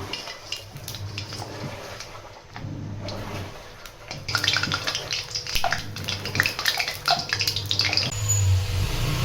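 Running water with scattered clinks of kitchenware, typical of washing up at a sink. The water gets louder and the clinks busier from about four seconds in.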